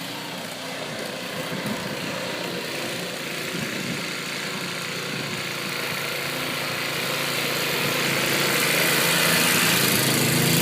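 An engine running steadily, slowly growing louder over the course of the sound.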